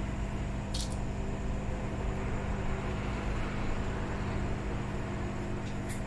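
Steady hum of a small motor with a few constant low tones, and two faint short ticks, one about a second in and one near the end.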